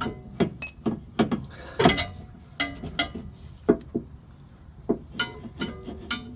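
Irregular metallic clanks and knocks, a dozen or so with some ringing briefly: a steel lower control arm being worked into place against the Chevy HHR's front suspension and wheel assembly.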